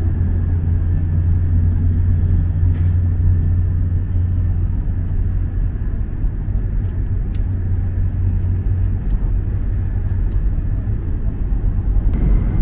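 E7 series Shinkansen running, a steady low rumble heard inside the passenger car, with a few faint ticks.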